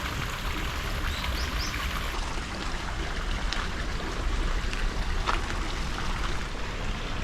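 Steady rush of running water, with a few faint high chirps near the start.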